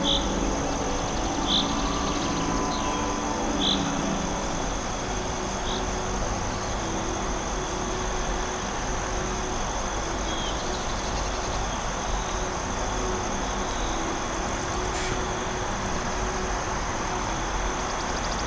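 Forest ambience: a steady high insect drone over an even rushing background, with short high bird chirps several times in the first six seconds and once more around ten seconds in.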